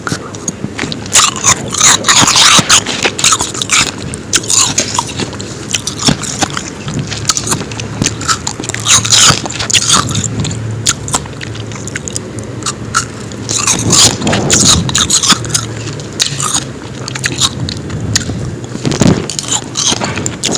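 Close-miked biting and chewing of powdery ice: crisp crunches come in dense clusters every few seconds, with quieter chewing between them.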